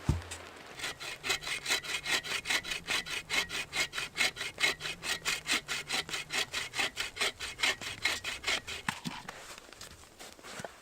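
Hand saw cutting through a piece of firewood in quick, even back-and-forth strokes, about five or six a second. It starts about a second in and stops near the end.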